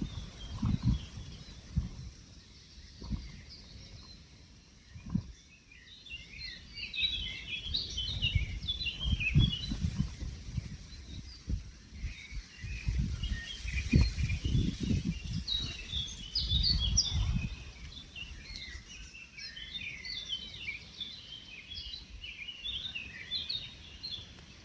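A chorus of woodland songbirds, many overlapping quick high chirps and trills. Low, gusty rumbles come and go underneath and are the loudest parts, around a third of the way in and again past the middle.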